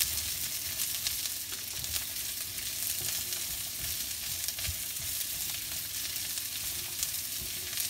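Sliced jalapeños and red onion sizzling in hot oil in a nonstick wok, stirred with a spatula that gives light scrapes and taps against the pan.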